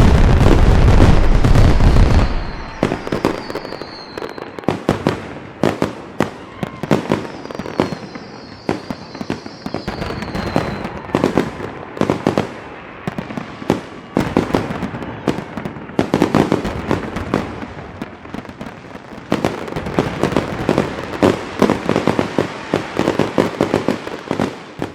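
Fireworks going off: a heavy, loud run of bursts for the first two seconds, then a long string of sharp bangs and crackles. Falling whistles come about three seconds in and again from about eight to eleven seconds, and the crackling thickens in the last third before fading out at the end.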